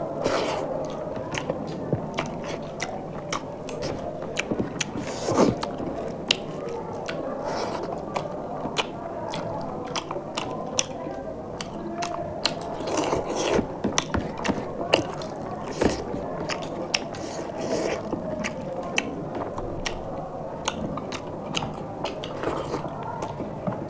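Close-miked eating: mouthfuls of rice and curry being chewed, with many short wet clicks and smacks from lips and mouth coming in quick irregular succession.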